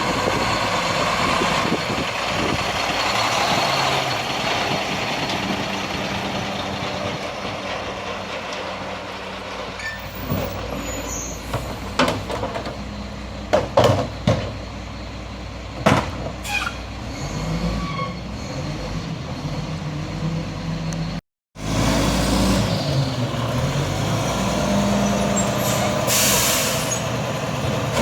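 Garbage truck engine running steadily, with several loud bangs around the middle as trash is handled. After a short break in the sound the truck's engine runs again, and a brief air-brake hiss comes near the end.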